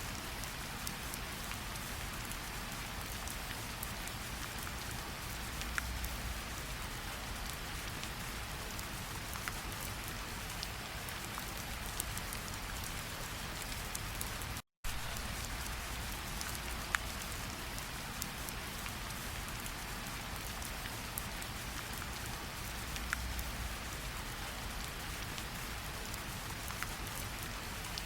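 Steady rainfall, an even hiss with scattered sharper ticks of single drops. The sound cuts out completely for a fraction of a second about halfway through.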